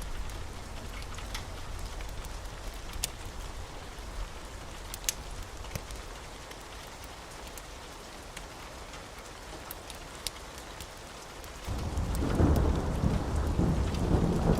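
Steady rain with scattered sharp drip-like ticks. About twelve seconds in, a loud low thunder rumble breaks in suddenly and keeps rolling.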